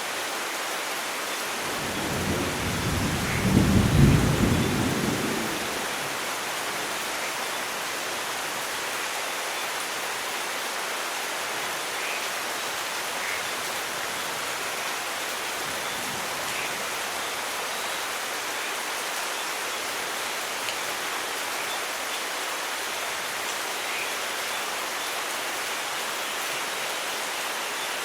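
Steady heavy rain with a rolling thunderclap that builds about two seconds in, peaks around four seconds and dies away by six. The rain hiss then continues evenly.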